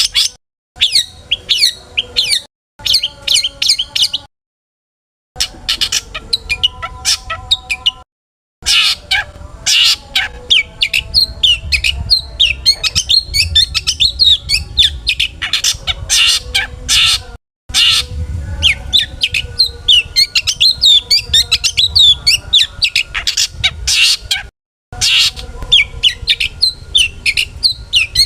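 Long-tailed shrike singing a fast, varied stream of chirps, squeaks and harsh squawks, full of mimicked phrases, broken several times by sudden short silences.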